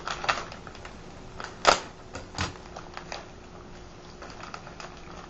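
Scattered clicks and knocks of kitchen utensils and containers being handled as brown sugar is measured out, with the loudest knock about a second and a half in and another just under a second later.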